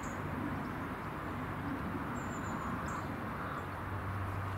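Outdoor background noise with a few short, very high, thin bird calls, and a low hum that strengthens near the end.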